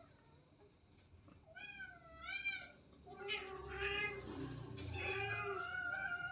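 Domestic cat meowing: one short meow with a wavering pitch about one and a half seconds in, then longer, drawn-out meows from about three seconds in.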